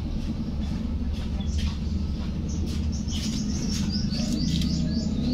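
Small birds chirping, with many short high calls coming thickest in the second half, over a steady low rumble.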